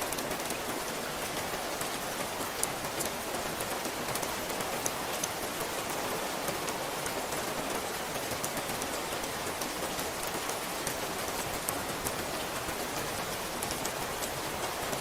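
Steady rain falling, with many sharp, separate drop ticks over a constant hiss.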